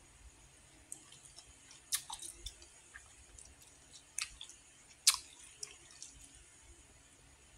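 A person chewing close to the microphone, with wet mouth clicks and smacks. There are sharper clicks about two, four and five seconds in.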